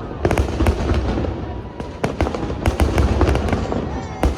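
Fireworks exploding in quick, irregular succession: many sharp bangs and crackles over a continuous low rumble.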